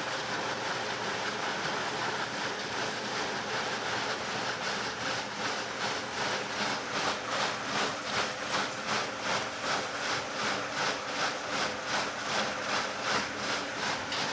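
Electrolux LTC15 top-loading washing machine running with water rushing and sloshing in the drum. From about five seconds in the sound settles into a regular swish roughly twice a second.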